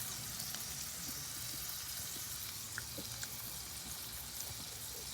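Food sizzling steadily in a pan, an even frying hiss with a few light clicks.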